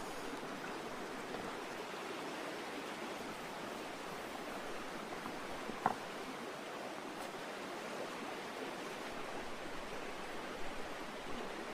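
Steady outdoor hiss, like running water or sizzling, with one sharp click about six seconds in.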